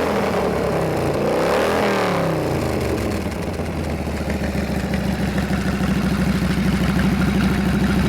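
1992 Harley-Davidson FXRS's 1340 cc Evolution V-twin engine revved in two quick blips, then settling back to a steady, lumpy idle about three seconds in.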